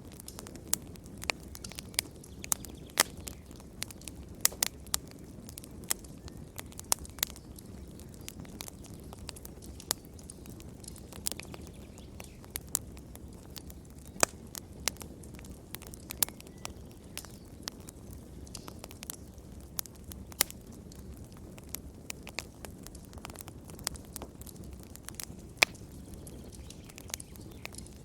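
Wood fire crackling: irregular sharp pops and snaps over a soft steady rumble of burning.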